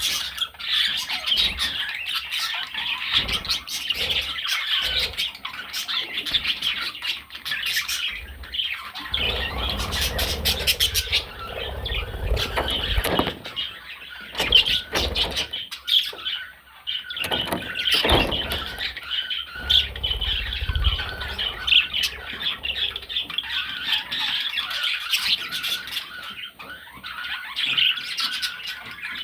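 Budgerigar chattering continuously: rapid chirps, warbles and squawks. Low rumbling thumps come in about a third of the way through and again about two-thirds through.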